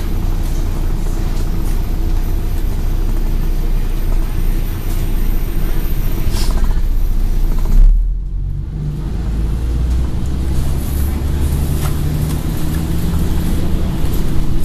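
Interior of a Scania N113 double-deck bus with its diesel engine running. About eight seconds in there is a low thump and the outside noise drops away sharply. After that the engine note climbs steadily as the bus pulls away.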